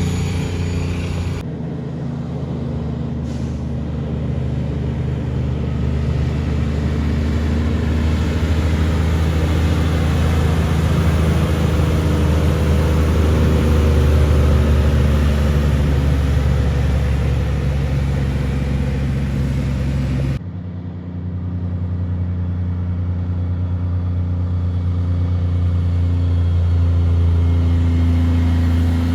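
Heavy truck diesel engines running as trucks drive past, with a deep steady engine drone. The sound is cut abruptly twice, about a second and a half in and about two-thirds of the way through.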